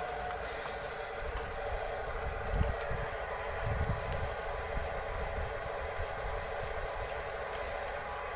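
Electric motors and gearboxes of radio-controlled bulldozer and excavator models whining steadily as they dig sand, with two low thumps near the middle.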